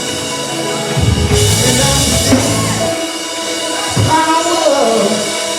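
Church worship music: live drum kit with bass drum hits under sustained keyboard or organ chords, with some singing.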